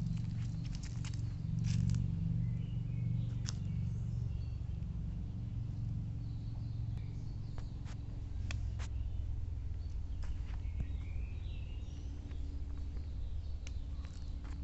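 Outdoor ambience on a walk: a steady low rumble of wind on the microphone, scattered sharp clicks and crunches, and faint bird chirps, more of them in the second half.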